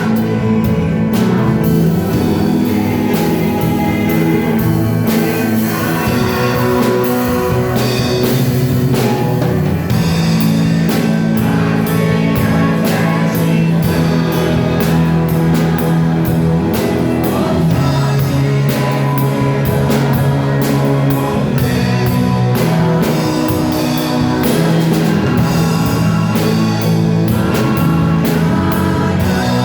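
Live worship music with singing over a full band: electric guitar, bass and a steady drum-kit beat.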